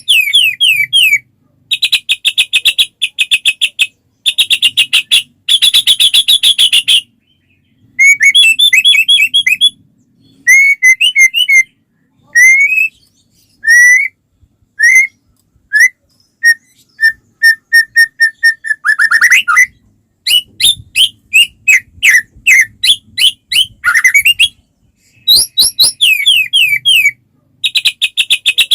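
White-rumped shama (murai batu) singing in full, continuous song: loud phrases of fast repeated notes and trills, upward-slurred whistles, and a run of short, evenly spaced notes about two-thirds of the way through, with brief pauses between phrases.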